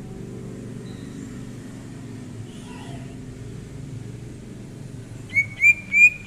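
Green leafbird (cucak ijo) giving a quick run of loud, short, upward-sliding whistled notes, about three a second, starting near the end. A steady low rumble runs underneath.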